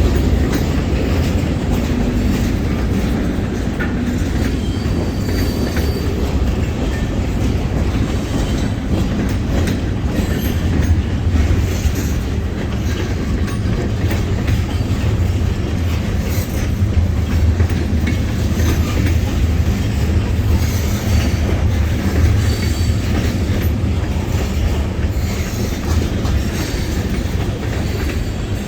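A long freight train's cars rolling steadily past, steel wheels running on the rails, with a few brief faint wheel squeals.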